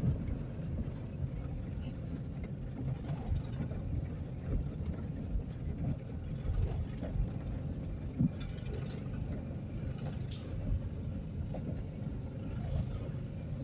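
A car being driven: a steady low rumble with a few light knocks and a faint steady high tone.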